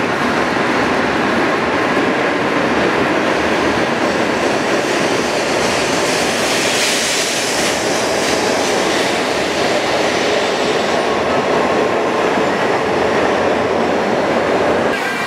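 Shinkansen bullet train running along the platform: a steady, loud rush of wheels and air, with a hissing swell about seven seconds in.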